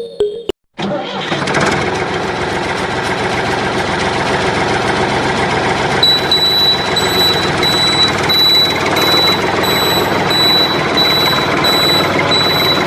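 A small engine or motor starts up about a second in and runs steadily, with a faint, evenly pulsing high whine joining about halfway through.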